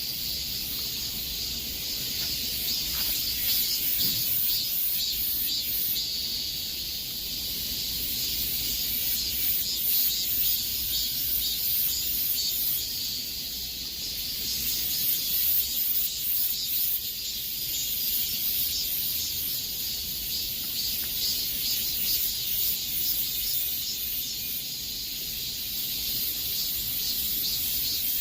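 Cicadas buzzing together in a dense, high-pitched chorus that pulses rapidly and swells and fades a little over the seconds.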